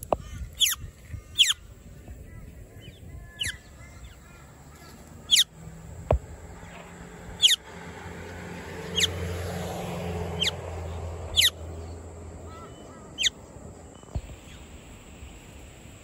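A bird giving about nine sharp, high calls spaced one to two seconds apart, each sweeping quickly down in pitch. A low rumble swells and fades in the middle.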